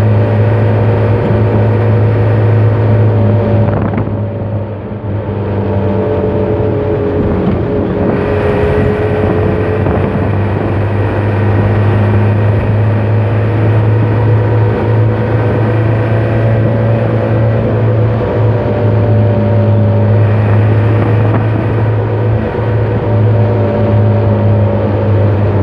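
Truck engine running steadily while the truck is driven, a strong low hum with a stack of tones that drift a little in pitch; the engine has recently been overhauled. Its level dips briefly about four seconds in, then comes back.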